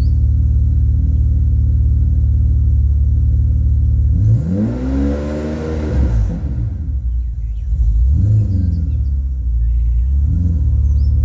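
BMW E31 850i V12 idling cold through an Eisenmann cat-back exhaust, with a slightly lumpy idle that the owner puts down to bad mass air flow sensors. About four seconds in, the engine is revved once, rising and falling over about two seconds, then given two shorter blips.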